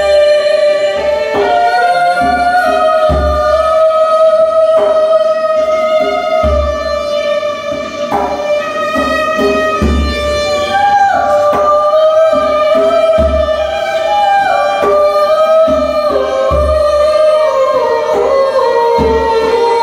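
Live music: a violin playing a slow melody of long held, gliding notes over a steady low drum beat.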